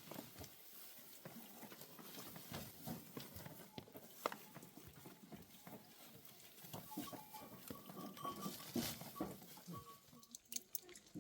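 Livestock moving about at close range, with scattered small knocks and clicks over a faint hiss.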